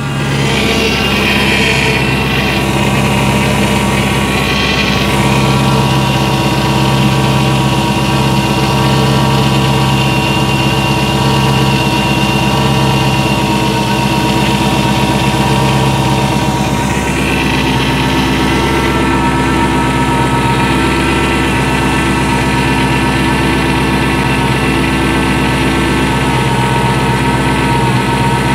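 Dodge Challenger Hellcat's supercharged 6.2-litre HEMI V8 idling steadily, running with its newly fitted power steering pump just filled with fluid.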